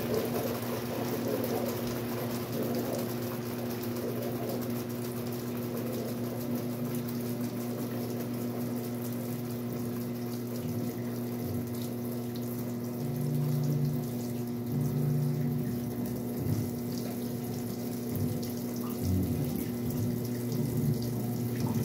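Westinghouse washing machine with water running in, over a steady low electrical hum.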